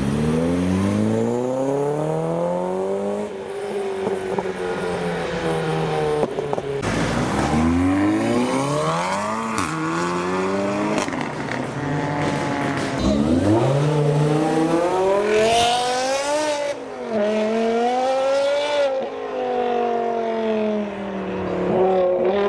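Modified car engines revving as cars pull away, the pitch climbing in long sweeps, dropping and climbing again several times, then holding steadier near the end.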